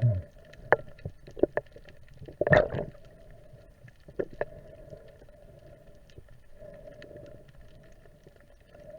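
Underwater sound picked up by a diving camera: scattered sharp clicks and knocks over a faint steady hum, with a louder rushing burst about two and a half seconds in.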